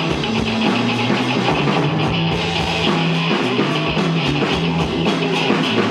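Live rock band playing an instrumental passage: drum kit keeping a steady beat under electric guitar and held bass notes.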